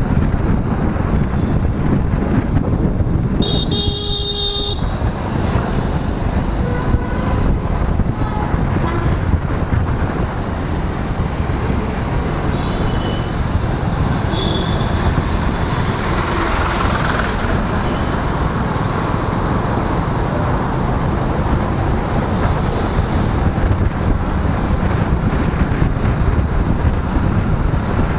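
Steady wind rush and road noise while riding a motorcycle in city traffic. A vehicle horn honks once for about a second and a half about four seconds in, and a few short, fainter horn toots follow in the next ten seconds.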